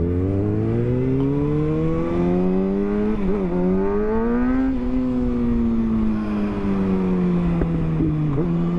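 Motorcycle engine pulling away under acceleration, its pitch rising with one quick dip for a gear change about three seconds in, then climbing again before easing off and slowly falling as the bike cruises.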